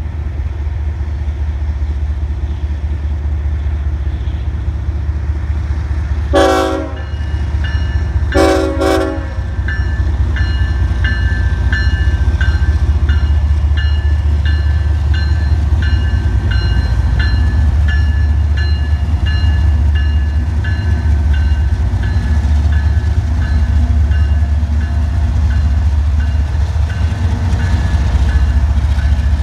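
Diesel locomotive horn on a passing freight train led by a GE ES44AC sounding two short blasts about six and eight seconds in, over the locomotives' steady low rumble. After the blasts, a bell rings in a steady repeating rhythm as the units roll past.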